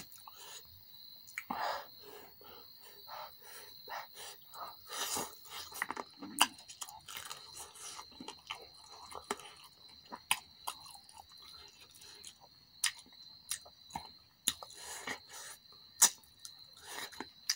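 Close-up eating sounds: chewing and wet lip smacks with many short sharp clicks, as spicy chicken curry is eaten with the fingers.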